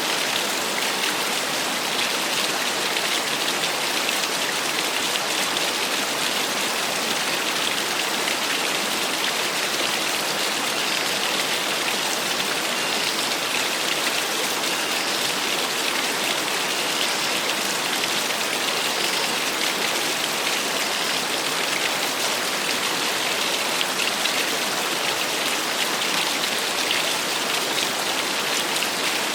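Small waterfall splashing steadily: a constant, even hiss of falling water, mostly high in pitch with little deep rumble.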